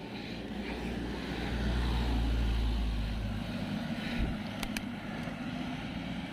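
Steady road and wind rumble while riding, with a heavier low rumble swelling for about two seconds and fading, like a motor vehicle passing close by. Two faint clicks follow a little after the middle.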